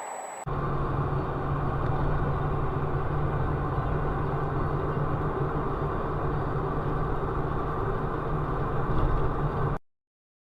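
Car driving at a steady pace: a constant engine hum and road noise. It starts suddenly about half a second in and cuts off to silence near the end.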